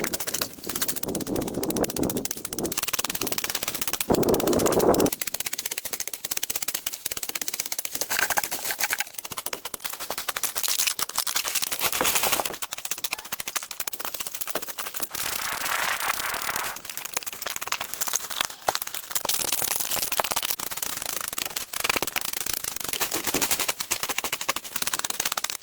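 A dense, irregular run of rapid clicks and crackles, mixed with stretches of scraping noise that swell and fade.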